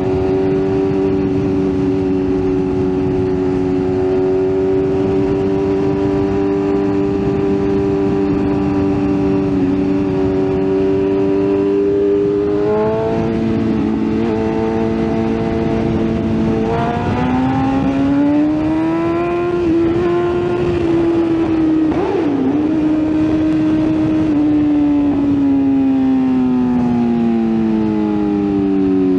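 BMW S1000RR's inline-four engine running at a steady cruise, its pitch stepping up about a third of the way in and climbing again a few seconds later, then falling away steadily near the end as the bike slows, over a steady hiss.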